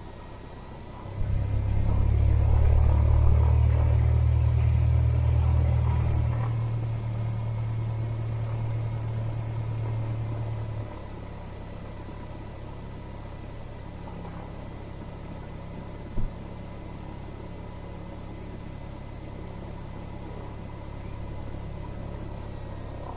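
Cessna 172R's four-cylinder Lycoming engine heard from inside the cabin: its low hum grows much louder about a second in as power comes up, holds for several seconds, then eases back to a steady idle about eleven seconds in. A single short click comes about sixteen seconds in.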